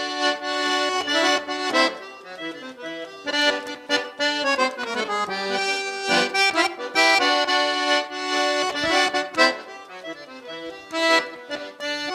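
Accordion playing an instrumental break in a gaúcho song: sustained chords and a moving melody, with no singing.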